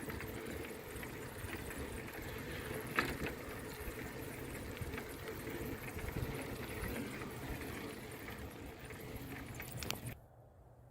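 Riding a bicycle: steady tyre and road rumble with wind noise on the microphone, a few sharp clicks and rattles from the bike, cutting off suddenly about ten seconds in.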